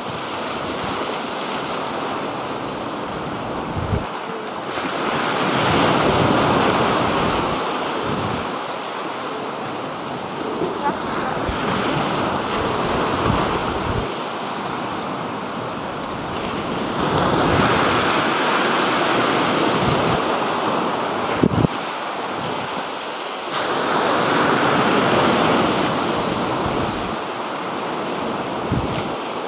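Black Sea waves washing onto the shore, the surf swelling and falling back in slow surges every few seconds, with wind buffeting the microphone.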